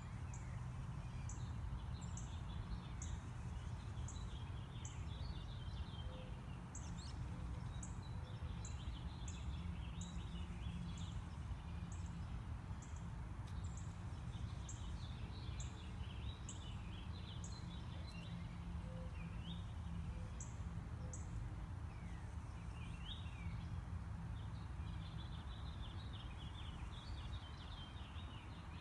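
Small backyard birds chirping and twittering, with a thin high note repeated about once a second, over a steady low background rumble.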